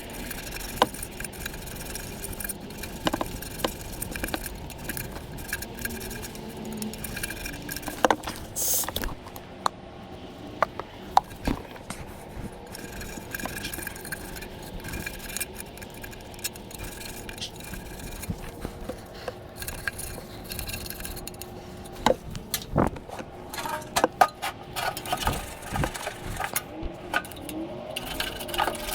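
Hand work on sheet-metal furnace parts: scraping and rubbing with scattered sharp metal clicks and knocks, busiest near the end.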